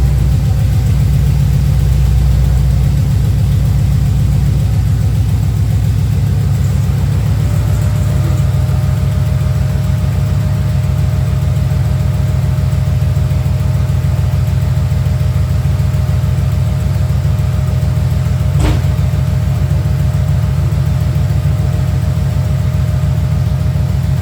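1994 Camaro Z28's LT1 V8 idling steadily just after starting, easing down slightly after the first few seconds. The new serpentine belt runs without squealing, leaving only a light exhaust tick; a single sharp click comes about three-quarters of the way through.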